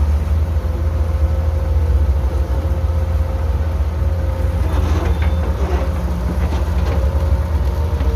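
Heavy construction machinery's diesel engine running steadily with a low rumble and a faint steady whine, with a few light knocks about five seconds in.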